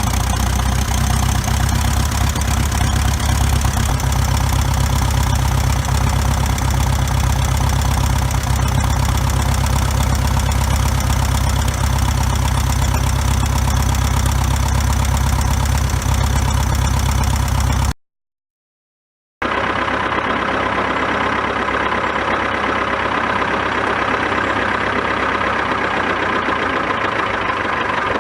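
Continental C90 four-cylinder air-cooled aircraft engine running steadily, with a deep, even note. About 18 seconds in, the sound cuts out for a second and a half, then the engine comes back thinner and less bassy.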